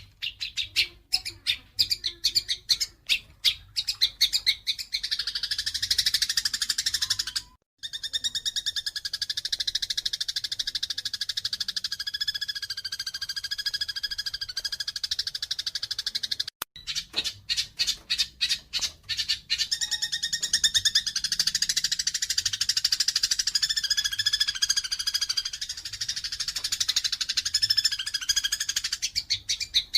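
Eurasian tree sparrows chirping and chattering in a fight. Runs of sharp separate chirps give way to long stretches of dense, fast chattering. The sound cuts out briefly twice, about a third and two thirds of the way through.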